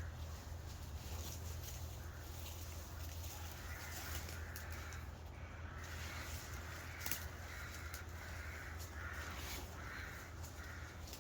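Crows cawing repeatedly, a run of short harsh calls coming about once a second through the second half, over a steady low background rumble.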